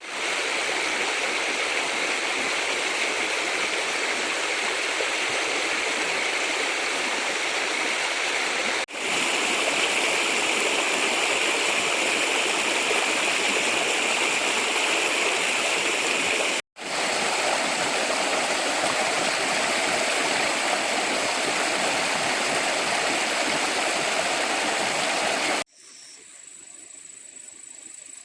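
Rainforest stream rushing steadily over rocks, its water noise broken twice by brief dropouts. Near the end it gives way to a much quieter background with a thin, steady high insect drone.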